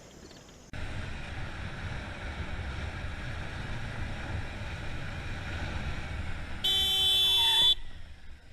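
Steady wind and road noise from a moving vehicle, starting abruptly under a second in. Near the end comes a loud steady pitched tone lasting about a second, which cuts off sharply.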